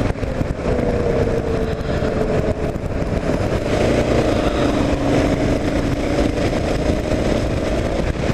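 Kawasaki KLR 650's single-cylinder four-stroke engine running while the bike is ridden on the road, under a steady rumble of wind and road noise. Its note drifts a little lower over the first few seconds, then holds steady.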